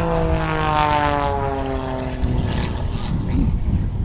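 Jet Pitts aerobatic biplane flying past, its propeller engine note falling steadily in pitch as it goes by, then fading into a rough low rumble.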